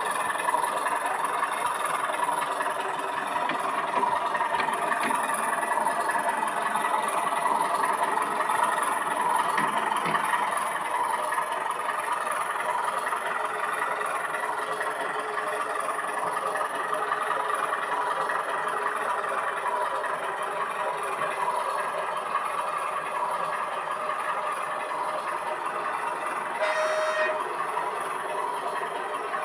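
O gauge model train running steadily, with a continuous rattle and whir of wheels and motor on the track. Near the end there is one brief short tone.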